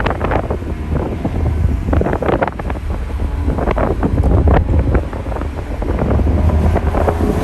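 BMW E90 M3's V8 with a custom exhaust, heard from inside the cabin while driving: a steady deep rumble with irregular crackles, plus wind and road noise. Near the end the engine starts to rev up.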